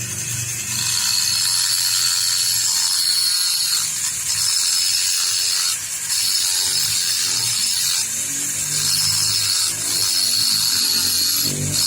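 A small high-speed power tool whining at a steady high pitch, running in several runs with short stops between them.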